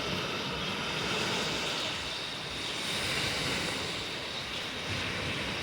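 Black Sea surf washing onto the shore as a steady rushing noise that swells and eases slowly.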